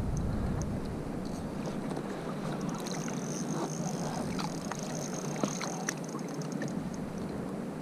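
Sea water sloshing against a fishing kayak, with a few light clicks and knocks around the middle.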